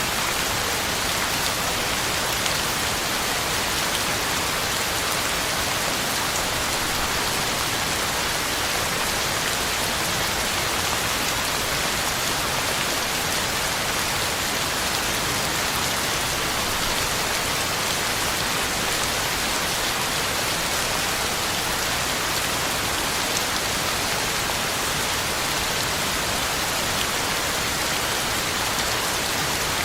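Heavy rain falling steadily, drops pattering on the ground and leaves, an even hiss with no change in strength.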